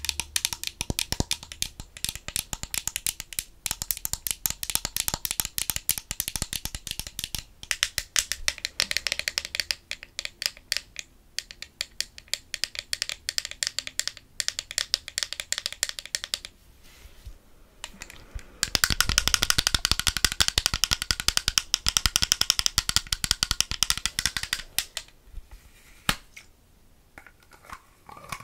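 ASMR trigger sounds: fast, dense clicking and tapping in two long runs, broken by a pause of about two seconds a little past the middle, then sparser clicks near the end.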